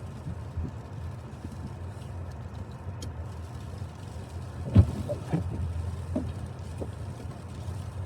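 Car running, a steady low rumble heard from inside the cabin, with one sharp knock a little under five seconds in and a few faint clicks after it.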